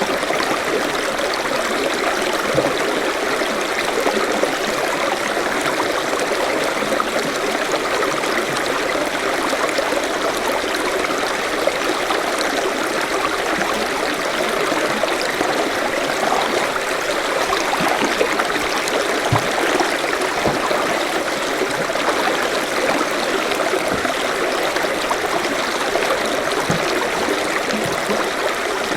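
Forest stream running over rocks: a steady, unbroken rush of water with small gurgles.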